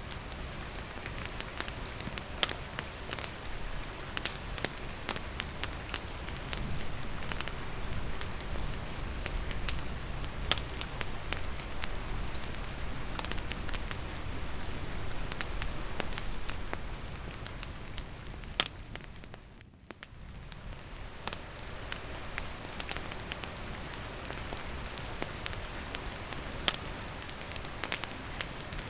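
Steady rain falling with a wood fire crackling, many sharp pops and ticks over the rain's even hiss. The whole sound briefly fades lower about two-thirds of the way through, then returns.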